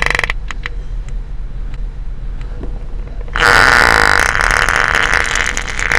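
Novelty noise toy making a loud, long, buzzy fart-like noise that starts a little past halfway, after a quieter stretch with a few clicks.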